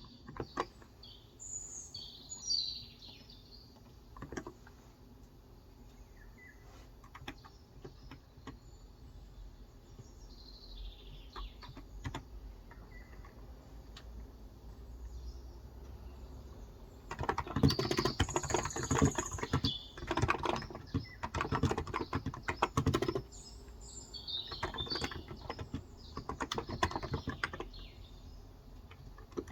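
Typing on a Cox Endeavor tenkeyless keyboard with 35 g electro-capacitive switches: scattered keystrokes at first, then quick, dense bursts of typing from a little past halfway. Birds chirp in short bouts near the start, in the middle and near the end.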